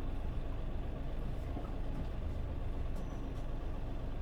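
Mitsubishi Fuso Aero Star city bus's diesel engine running steadily, a low even rumble heard from inside the passenger cabin.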